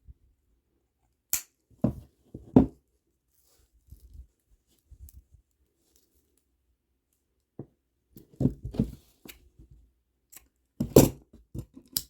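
Plastic kandi beads and string being handled: scattered sharp clicks and rustles, with a louder burst of clicking near the end, called loud.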